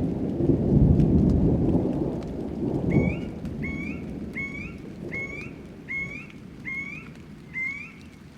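A thunderstorm: a long roll of thunder rumbles loudest over the first few seconds and fades out, under steady rain. Then a bird repeats a short rising call seven times, evenly spaced.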